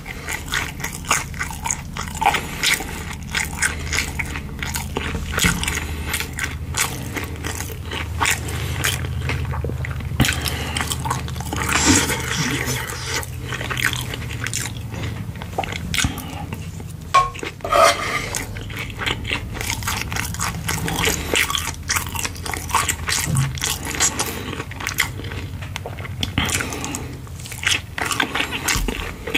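Close-miked chewing of kimchi and pork belly fried rice, with wet mouth clicks and smacks, and a wooden spoon scraping rice across a granite-coated frying pan. A low steady hum runs underneath and fades out about three quarters of the way through.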